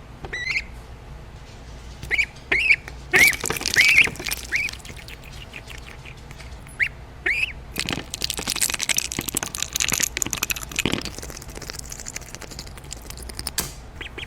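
A duck giving short, high arched calls, about eight of them in the first half, with a stretch of noise for a few seconds around the middle.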